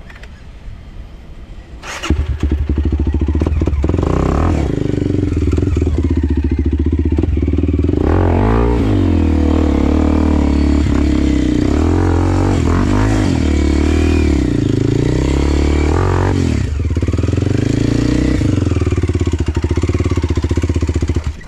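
Enduro dirt bike engine, quiet for about two seconds, then coming in loud and running with repeated revs up and down, and cutting off suddenly near the end.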